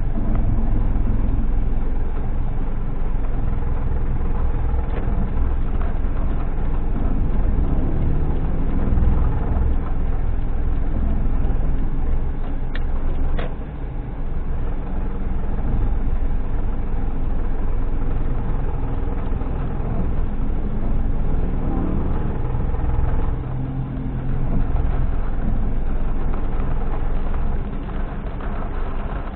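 A car driving: a steady low rumble of engine and road noise that dips briefly a few times, with two faint clicks about halfway through.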